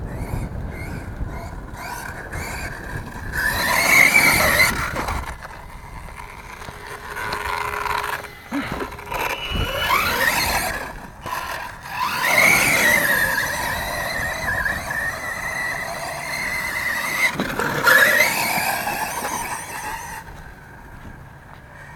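Brushless motor of a 1/8-scale RC truck on a Castle Mamba X ESC whining under throttle, its pitch rising and falling with several bursts of acceleration and one longer held run, over the noise of the truck running.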